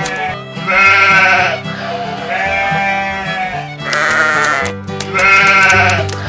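Four quavering animal bleats, about a second and a half apart, over background music with a steady bass line.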